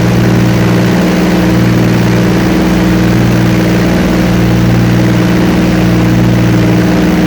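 Airboat's engine and propeller running at a steady speed, heard from on board: a loud, even drone.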